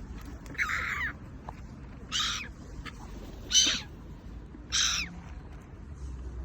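A bird giving four short, harsh calls, about a second and a half apart, over a low steady background rumble.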